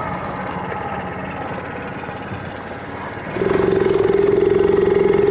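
49cc mini bike engine running while ridden. About three and a half seconds in it suddenly gets louder, with a strong steady buzzing note.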